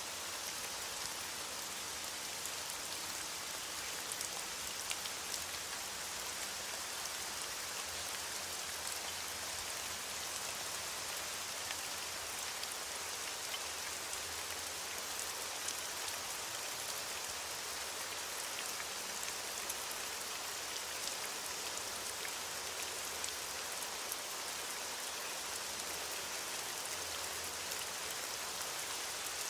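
Steady heavy rain falling on a surface, an even hiss with many close scattered drop ticks and now and then a louder drop.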